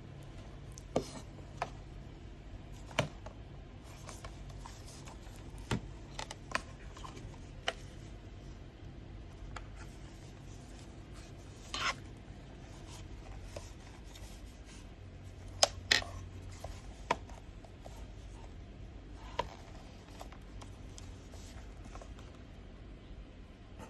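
Hands handling a gaming headset and its packaging: scattered clicks, taps and rubbing, with a few sharper knocks spread irregularly through.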